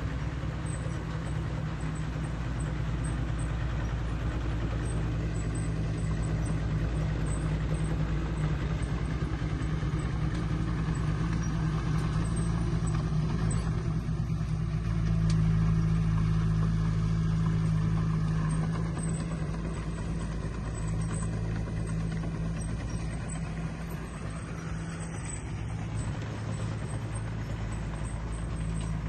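Heavy diesel engine of a bulldozer running steadily under load in a low drone. It grows louder for a few seconds around the middle, then eases back.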